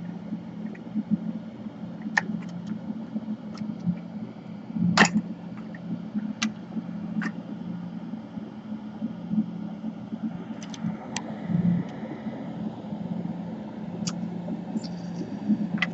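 A steady low hum with scattered light clicks and taps from small tools and parts being handled on a laptop's insides, the sharpest tap about five seconds in.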